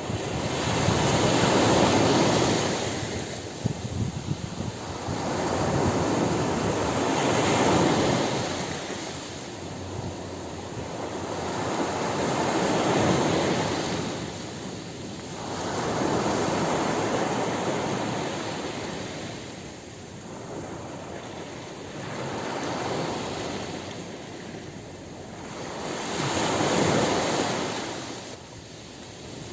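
Ocean surf breaking on a beach: the rush of water swells and fades about six times, one wave roughly every five seconds.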